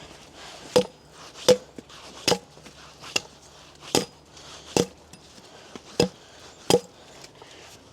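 Axe chopping into a wooden log: about eight sharp, evenly paced strikes, roughly one every 0.8 seconds.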